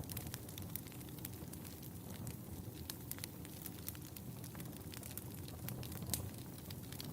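Fire burning in a fireplace: a steady low rumble of flames under frequent, irregular sharp crackles and pops, with a louder pop about six seconds in.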